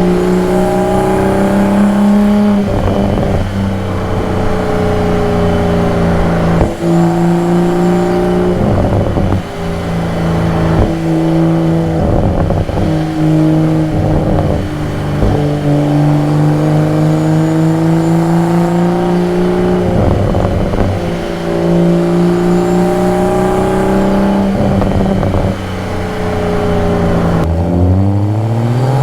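2022 Toyota Supra's engine and exhaust running while driving at fairly steady revs, the engine note drifting gently up and down with a few brief dips. Near the end the note drops away, then climbs steadily as the car accelerates.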